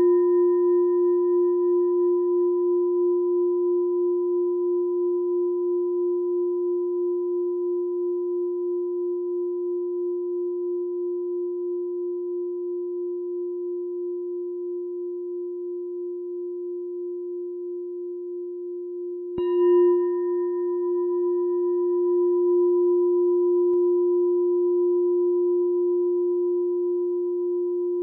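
Meditation bell ringing on with a slow, wavering fade, struck once more about two-thirds of the way through and ringing out again.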